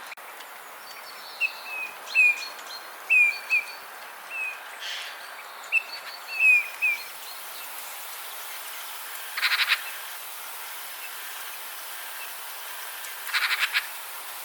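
Birds calling: a run of short, falling chirps over several seconds, then two brief rapid rattling calls about four seconds apart, over a steady hiss.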